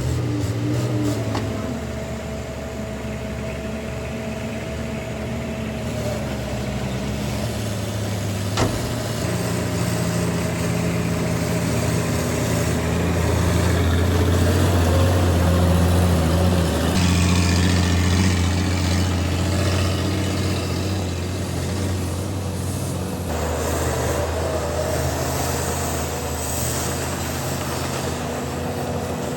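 Heavy diesel earthmoving machinery running and working, several engine notes rising and falling. A single sharp knock about nine seconds in; loudest around the middle.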